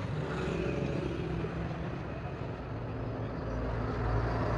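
Diesel truck engine running at idle, a steady low hum that grows louder and deeper toward the end.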